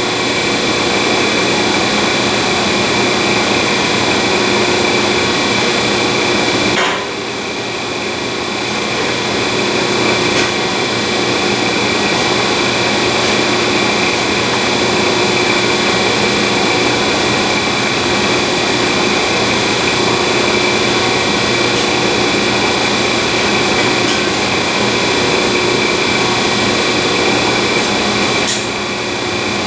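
Power tool cutting steel exhaust tubing at a marked cutoff point: a loud, steady cutting noise with a held whine. It eases off briefly about seven seconds in and again near the end.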